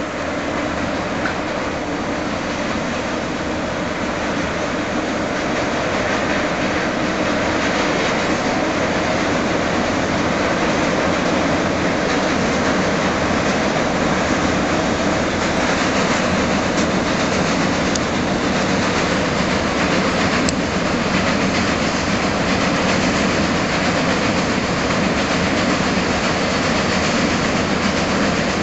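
Container freight train hauled by an EF66 electric locomotive running across a steel railway bridge, a loud steady rail rumble that grows a little over the first several seconds and then holds.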